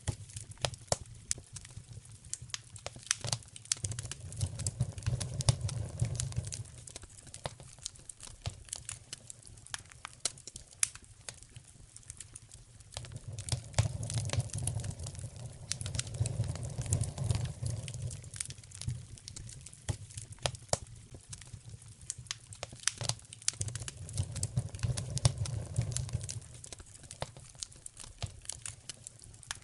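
Wood fire in a fireplace crackling, with frequent sharp pops and snaps. A low rumble swells and fades three times.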